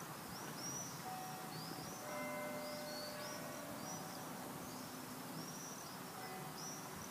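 Small birds chirping over and over, with faint, sustained bell-like ringing tones, several pitches overlapping, starting about a second in.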